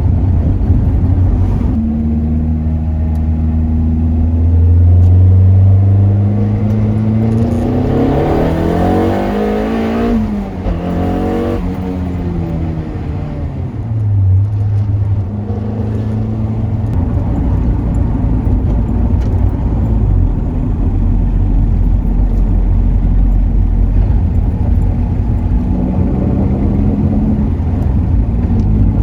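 Turbocharged Toyota MR2 Roadster's 1ZZ-FE four-cylinder engine under way on a road test with raised boost. It runs steadily, then about seven seconds in revs hard with a quickly rising pitch for about three seconds, and falls back over the next few seconds to a steady run.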